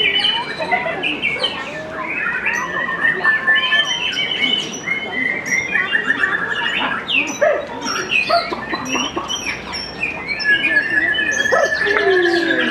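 White-rumped shama (murai batu) singing a continuous, varied song of clear whistles, rapid trills and chattering phrases, one after another without a break.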